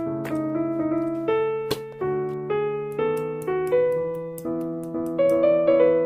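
Background piano music: a gentle melody of single notes over held low notes.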